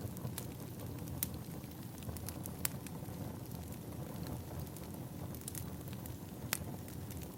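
Wood fire burning: a steady low rumble with sharp, irregular pops and crackles of burning firewood.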